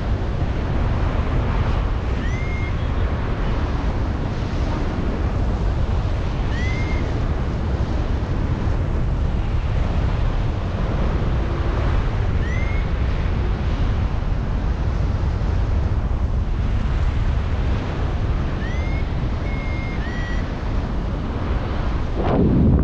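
Strong wind rushing over the microphone of a paraglider pilot in flight, a steady roar with a louder gust near the end. A short rising chirp sounds about five times over it.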